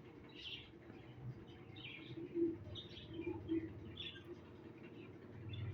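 Parrots chirping: short, separate high calls about once a second over a low background hum.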